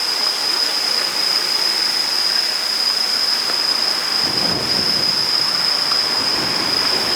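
Strong wind buffeting the microphone as a steady rushing noise, growing heavier about four seconds in, with a thin steady high-pitched whine underneath.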